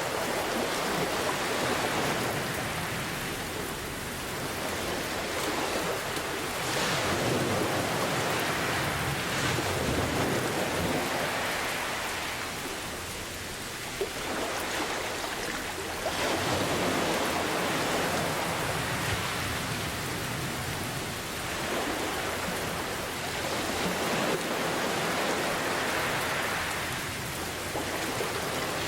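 Steady rain mixed with ocean waves, the surf swelling and washing back every five or six seconds. A single sharp tick sounds about halfway through.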